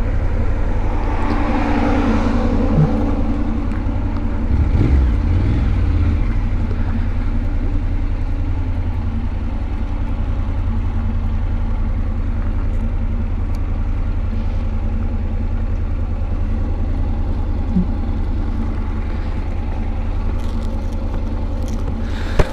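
Honda NC motorcycle's parallel-twin engine running steadily under way, heard from the rider's helmet, with a short swell of louder noise about a couple of seconds in.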